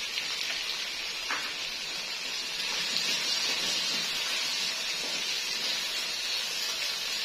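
Chicken, onion and freshly added green bell pepper strips frying in oil in a wok: a steady sizzling hiss, with a faint tap of the plastic spatula a little over a second in as they are stirred.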